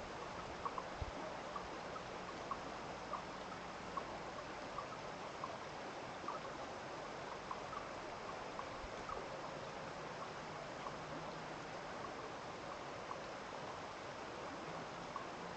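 A small stream running steadily after rain, with light, irregular plinks of water scattered through it.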